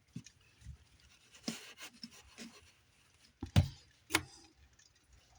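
Soft rustling and small handling knocks, with two sharper knocks about three and a half and four seconds in, as a makeshift incubator box is being covered to keep the heat in.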